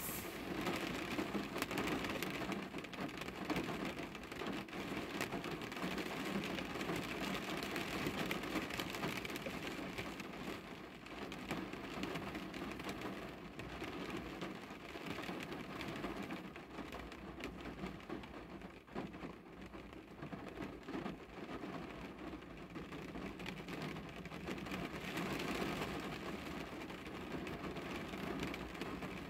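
Rain falling on a car's roof and windows, heard from inside the car: a steady hiss of drops that eases in the middle and picks up again near the end.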